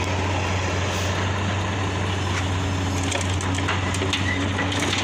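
Heavy diesel machinery running steadily with a constant low drone while soil is loaded into a dump truck, with scattered clatters and knocks of falling soil and stones in the second half.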